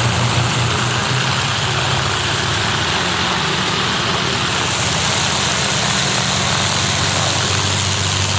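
Piston aircraft engine running steadily, with a low hum whose pitch shifts a little about three seconds in and a broad rushing noise over it.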